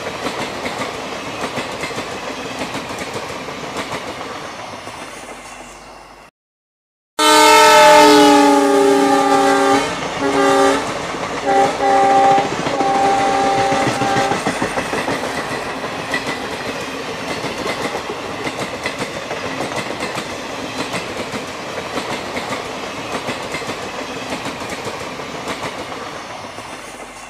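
Railway train running along the track with a clattering of wheels over the rails, fading out about six seconds in. After a brief break, a locomotive horn sounds one long blast followed by several shorter ones, and the train's running noise carries on steadily afterwards.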